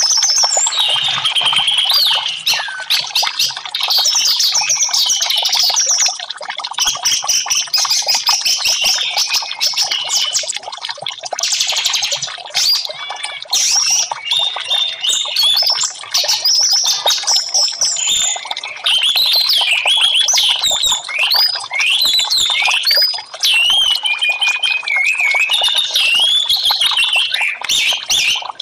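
Orange-headed thrush singing a long, rapid, varied song of quick whistled phrases and chattering notes, with only brief pauses.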